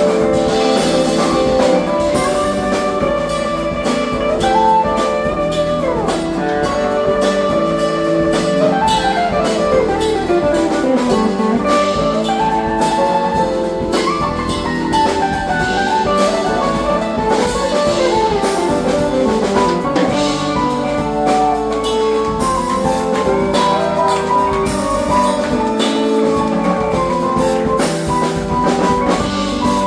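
A live funk band playing, with drum kit and guitar under a lead melody that slides up and down in pitch.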